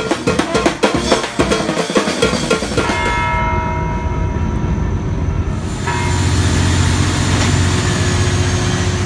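Fast drumming, a dense run of quick strikes, for about three seconds. It then gives way to a different, steady sound: a few held tones over a low rumble.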